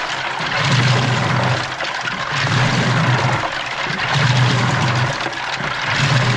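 Washing machine on its wash cycle, heard from inside the drum: water sloshing and churning, with the motor's low hum swelling in even pulses about every second and a half to two seconds as the drum turns.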